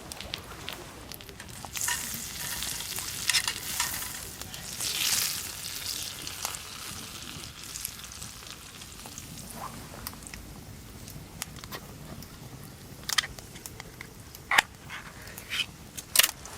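Food sizzling in a pan over a campfire, the sizzle swelling louder for a few seconds early on and then settling to a steady hiss. A few sharp clicks come near the end.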